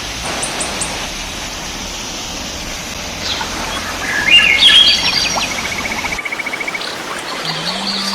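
Birds chirping and calling over a steady rushing hiss. The loudest burst of chirps comes about four seconds in and is followed by a quick, even trill; the background hiss drops away abruptly about six seconds in.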